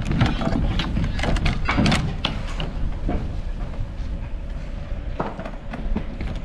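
A run of sharp knocks and clatters, thick in the first few seconds and then scattered single knocks, over a steady low rumble.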